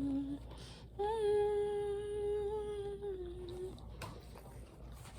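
A person humming: a low note trails off at the start, then about a second in comes one long held note lasting over two seconds that dips slightly before fading. A faint click follows.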